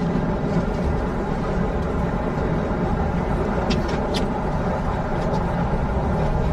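Steady low rumble of a moving passenger vehicle heard from inside the cabin, with a few faint clicks about four seconds in.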